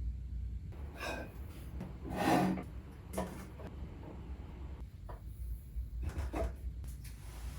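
A few short handling noises of things being moved and set down, the loudest about two seconds in, over a low steady hum.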